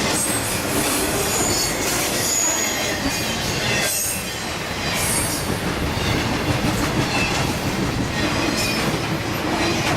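A train rolling by on steel rails, its wheels squealing in short high screeches over the steady rumble and clatter of the cars.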